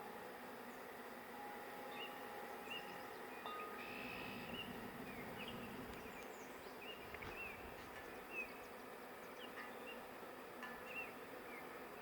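Honey bee swarm buzzing: a steady hum of many bees flying around a hive box as the swarm moves in.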